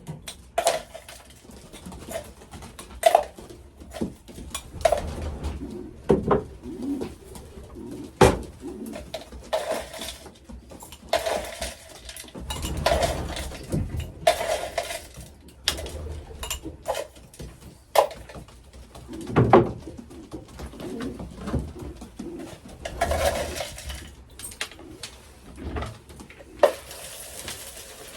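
Racing pigeons cooing in the loft, with sharp clicks and clatters every second or two, likely as feed is poured and feeders are handled.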